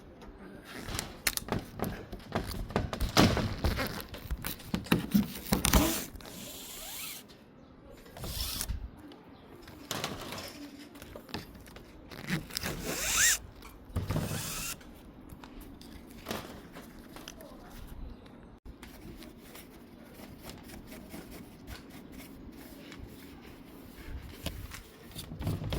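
Hand work on an insect screen: irregular clicks and knocks from the frame and tools, with a few short scraping, rasping strokes along the mesh.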